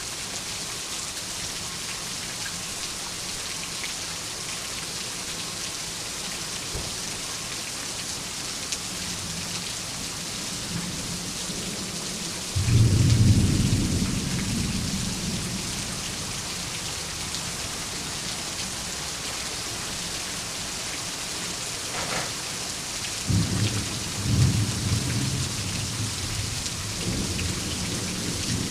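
Steady heavy rain hissing, with a sudden loud clap of thunder about halfway through that rolls away over several seconds. A second, rolling rumble of thunder follows near the end.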